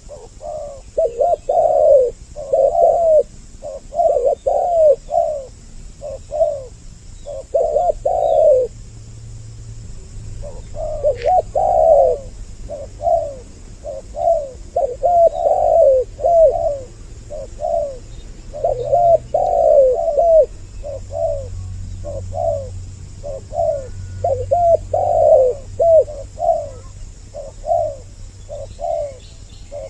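Spotted doves (tekukur) cooing in repeated low phrases, with a short pause about a third of the way through. It is a lure call used to draw the birds in.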